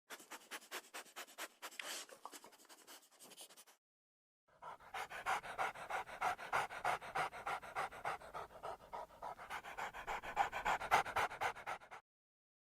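Dog panting in quick, even breaths, several a second. A first run fades out after about three and a half seconds, and after a short silence a louder run of panting starts and carries on.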